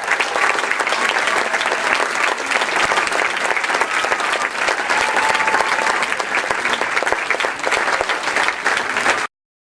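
Crowd applauding, with a few voices calling out over the clapping. The sound cuts off abruptly near the end.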